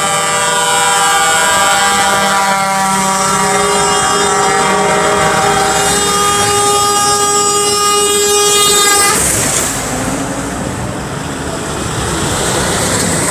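Truck air horns blowing together in one long, loud blast of several tones at once. The chord shifts about six seconds in, and the horns stop about nine seconds in, leaving a steady noisy background.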